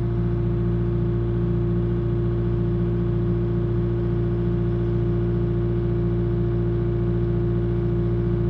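A vehicle engine running steadily at an even speed, a constant low hum that does not change.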